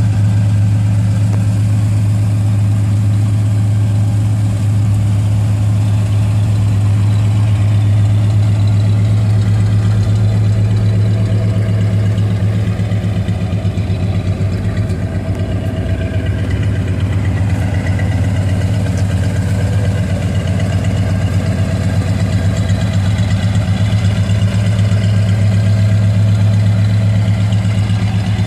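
1968 Plymouth Road Runner's V8 idling steadily, a low, even engine note.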